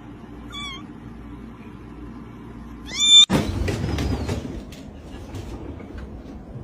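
A cat meowing twice: a faint short meow about half a second in and a louder, longer one about three seconds in. After the second meow there is rustling with a few light clicks.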